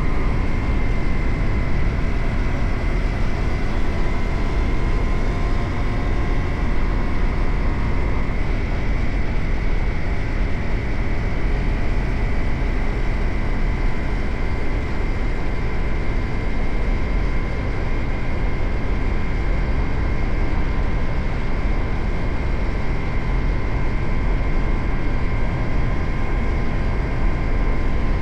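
Suzuki GSX-8R's parallel-twin engine running at a steady cruise under heavy wind rush on the camera's microphone. A steady high whine holds throughout, and a second, lower tone drops away about eight seconds in.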